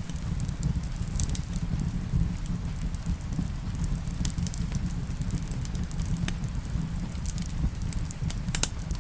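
Fireplace ambience: a wood fire crackling, with scattered sharp pops over a steady low rumble, mixed with the steady sound of rain.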